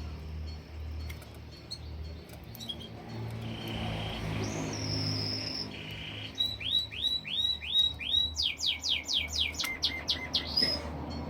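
Canary singing: a few held whistled notes, then five quick swooping notes, then a fast trill of about eight rising notes, over a steady low hum.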